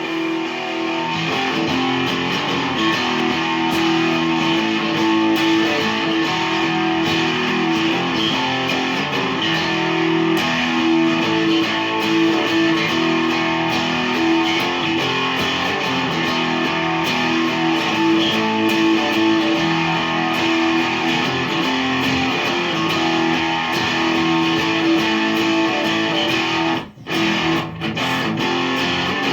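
Electric guitar riff played through a chain of EarthQuaker Devices pedals: The Warden compressor, Arrows booster, Cloven Hoof fuzz, Sea Machine chorus and Spatial Delivery envelope filter. The playing starts at once and runs steadily, with two short breaks near the end.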